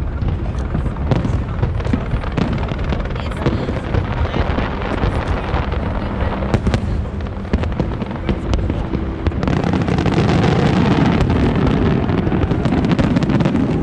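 Aerial fireworks display with shells bursting in a dense, continuous run of pops and crackles. It grows louder about ten seconds in.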